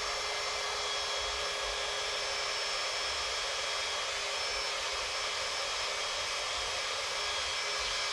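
Electric drill running steadily with a rubber decal eraser wheel, spinning against the panel to strip off old stickers; a constant whine over an even rush of noise.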